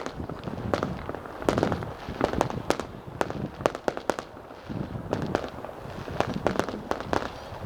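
Fireworks display: a rapid, irregular barrage of shell bursts, several bangs a second with a continuous rumble and crackle between them.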